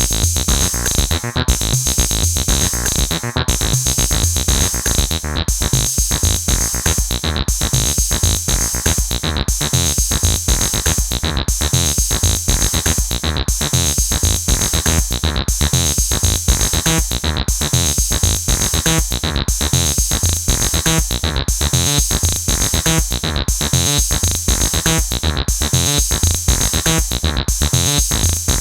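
Acid electronic music played on AcidMachine: a synthesizer bassline in fast, evenly repeating notes over a drum machine beat with a heavy low end. A high hissing layer cuts out briefly about every two seconds.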